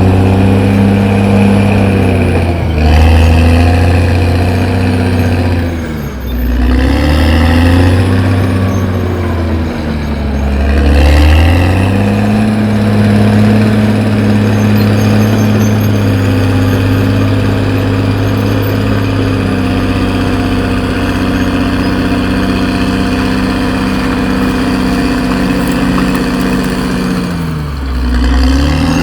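CAT D6R XL bulldozer's diesel engine working hard. Its note dips and rises again several times, about 3 s, 6 to 7 s and 11 s in, and once more near the end, as the engine lugs under load and recovers.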